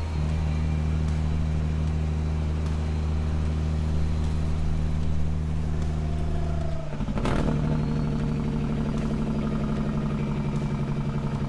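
Semi-truck diesel engine running with a steady drone. About seven seconds in, its note changes and the lowest part of the drone falls away, with a short sharp clack at the change.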